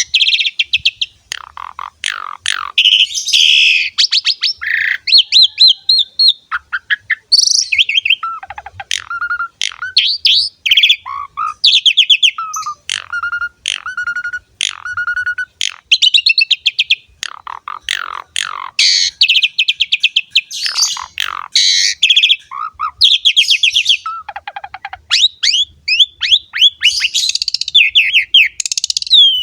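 Pied starling (jalak suren) singing vigorously without letup: a varied, tumbling run of clear whistles, rapid chattering trills and harsh notes with only brief pauses.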